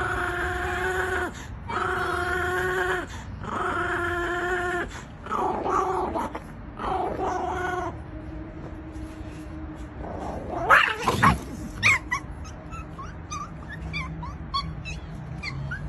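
A dog crying out in three long, steady, drawn-out notes, then shorter wavering cries, a rising-and-falling cry about eleven seconds in, and short high squeaks near the end.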